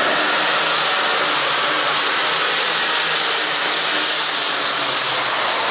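Engine of a tractor-pull competitor running steadily in an indoor arena, a dense loud noise with a faint engine tone underneath.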